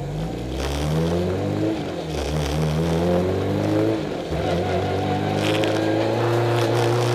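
Honda Civic FD2 touring car's four-cylinder engine accelerating, heard from inside the cabin. It rises in pitch through the gears, with shifts about two and four seconds in, then pulls steadily and slowly higher.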